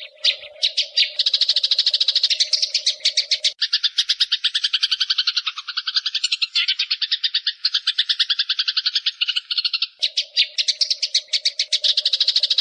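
Eurasian tree sparrows chattering in a fight: a fast, unbroken run of short chirps, around ten a second, which shifts in pitch a few seconds in and back again near ten seconds. A low steady hum sits under the chirping at the start and returns near ten seconds.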